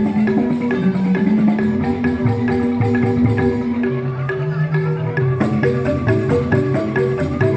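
Balinese joged bumbung gamelan playing a fast, busy pattern on bamboo xylophones (grantang), with rapid struck notes over held low bass tones.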